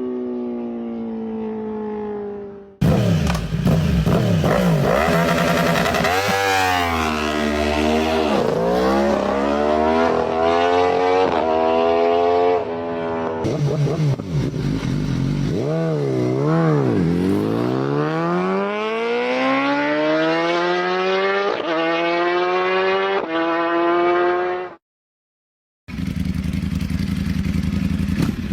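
Superbike engine revving hard, its pitch sweeping up and down, then accelerating with a rising pitch that drops back at each gear shift. The sound cuts abruptly between takes, with about a second of silence near the end.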